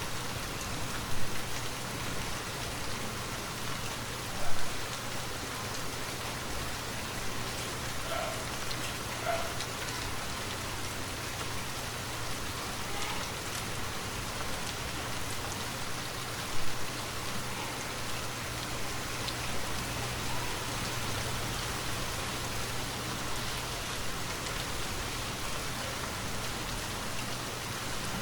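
Steady rainfall in a forest, a continuous even patter of drops on leaves and ground. Three brief louder taps of close drops stand out over it.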